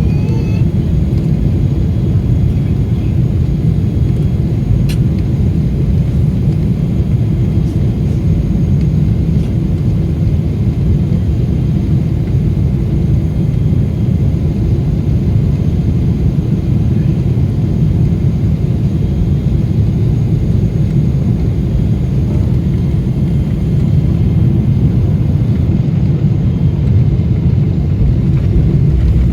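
Steady low rumble inside the cabin of a Boeing 777-300ER airliner around landing, with a faint steady whine above it.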